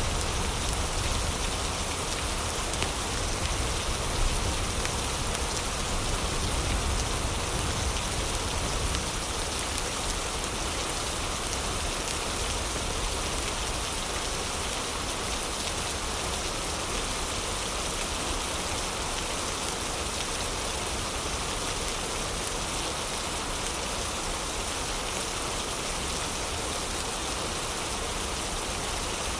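Steady heavy rain falling, with gentle fireplace crackling mixed in. A low rumble is stronger for the first nine seconds or so, then evens out.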